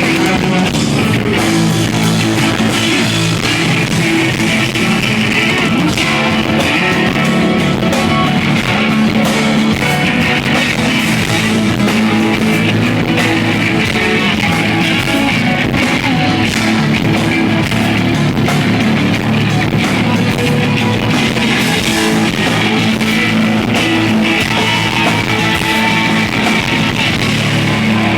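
A live rock band playing: electric guitars and a drum kit going at full volume, heard from the audience through a handheld device's microphone.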